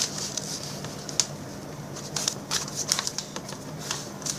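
A sheet of paper rustling and scraping as it is folded in half and the crease is pressed down, in irregular short strokes.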